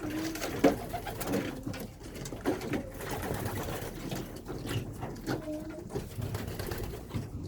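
Pigeons cooing: a few low coos among scattered small clicks and knocks.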